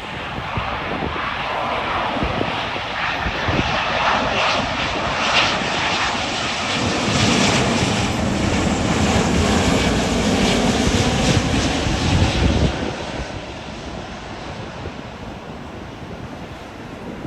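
Airliner's engines passing close by: the noise builds, is loudest with a deep rumble from about seven to twelve seconds in, then falls away.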